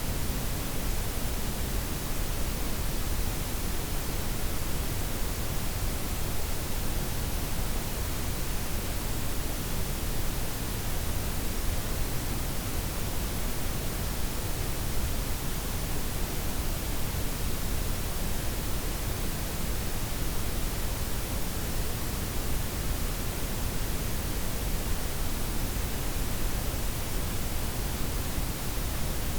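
Steady blend of white, pink and brown noise, a smooth even hiss with a deep low rumble underneath and no changes.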